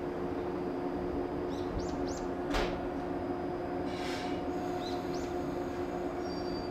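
Steady electrical hum of electric trains standing powered up at a station. Birds chirp briefly a few times over it, with a sharp click about two and a half seconds in and a short hiss about a second later.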